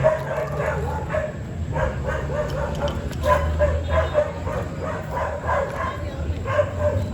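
A small dog barking and yapping repeatedly in short, high-pitched barks, over a low steady hum.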